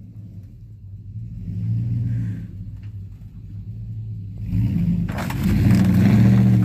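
Truck engine revving hard under load, swelling once and then again, louder, the second time; from about five seconds in a loud noisy rush with clatter joins it, the sound of the van being pulled over.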